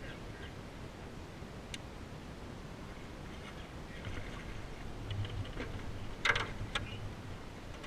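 A few sharp knocks on a small boat, clustered about six seconds in, over a faint low hum and steady background noise, with a single click earlier.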